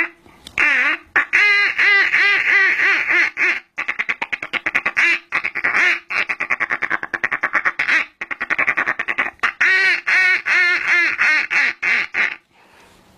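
Imitation of a mallard duck: a series of loud quacks broken by fast chattering runs of short quacks, stopping about a second before the end.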